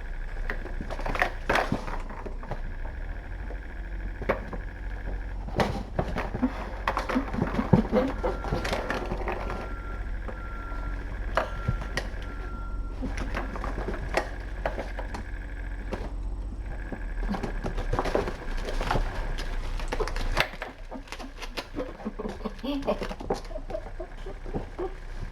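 Irregular clicks, knocks and light clatter in a small room, over a steady low electrical hum.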